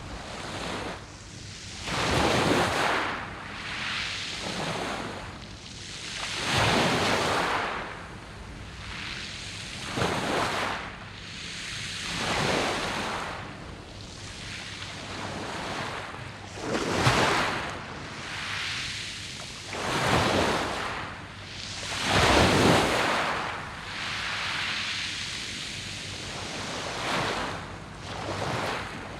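Sea waves breaking and washing over a pebble beach, the noise swelling and falling in repeated surges a few seconds apart.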